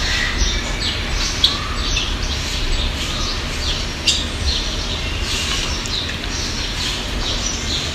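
Small birds chirping, many short calls one after another, over a steady low rumble.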